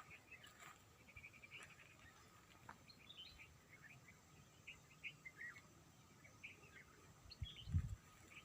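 Faint small birds chirping, short scattered calls throughout. A dull low thump near the end.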